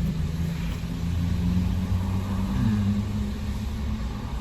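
Motor vehicle engine idling with a steady low hum, its pitch shifting slightly a little past halfway.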